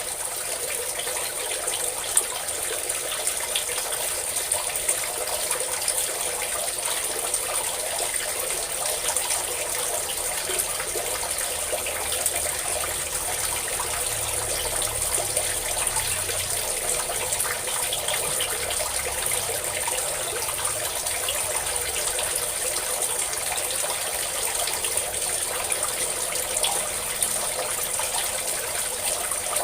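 Steady stream of water pouring and splashing, with small sharper splashes scattered through it.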